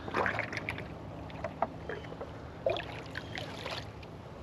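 Water from a running hose splashing and trickling into a livestock water bowl as it fills, in two short spells of sloshing.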